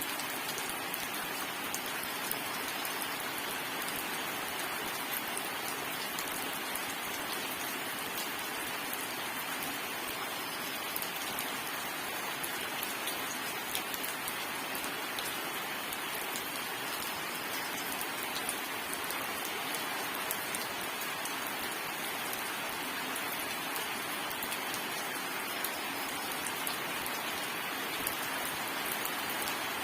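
Steady rain falling on a surface, an even hiss with scattered fine drop patter and no thunder.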